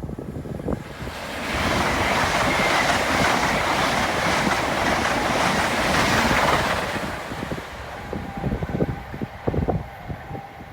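A train passing: a rush of wheel and rail noise that builds about a second in, holds loud for about five seconds, then fades away.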